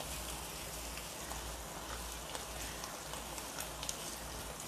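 Chopped vegetables sizzling steadily in a wok as they are stir-fried, turned with a spatula, with a few faint clicks of the spatula on the pan.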